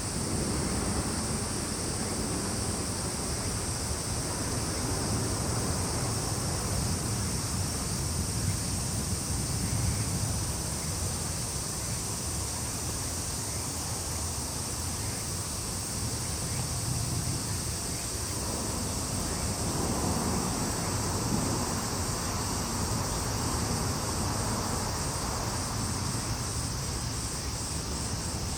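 Steady, high-pitched chorus of summer insects, with wind rumbling on the microphone underneath. Near the end a rapidly pulsing insect call joins the steady chorus.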